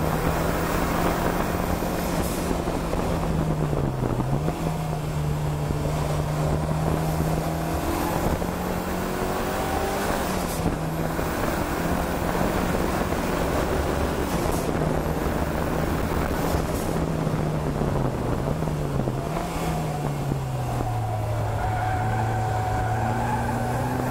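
A car's engine heard from inside the cabin on a circuit lap, held at a steady high note with a few brief dips in pitch as the driver lifts or shifts, then settling to a lower note in the last few seconds as the car slows, over steady road noise.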